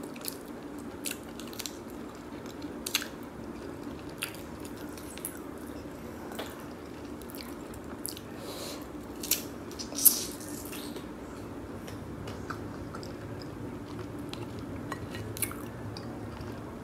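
Close-up eating sounds: a person chewing seafood boil shrimp and crab in spicy sauce, with wet mouth and finger sounds and scattered small clicks over a steady low hum. Two louder sharp sounds come around nine and ten seconds in.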